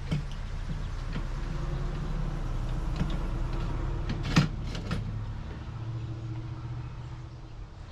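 Car seat parts being handled and fitted back together, giving a few sharp clicks and knocks, the loudest about four and a half seconds in, over a steady low hum.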